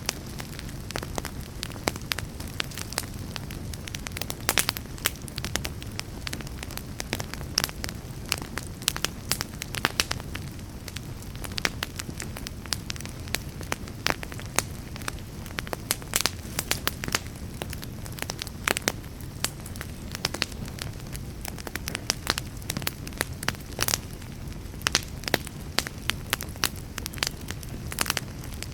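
Wood fire burning with frequent irregular sharp crackles and pops over a steady low rumble of flames.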